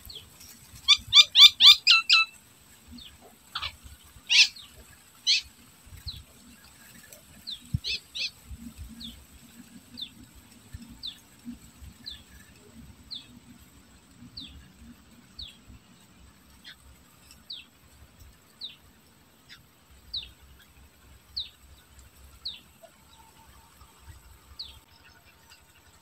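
A bird chirping: a quick burst of about seven loud chirps near the start, a few single loud notes, then short falling chirps repeated about once a second.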